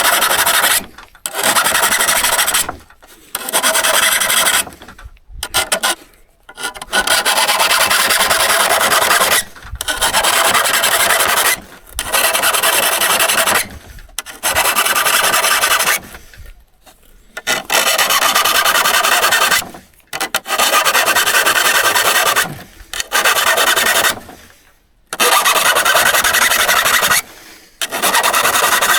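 Hand abrasion on an old hand saw: about a dozen gritty scraping strokes, each one to three seconds long, with a brief pause between them.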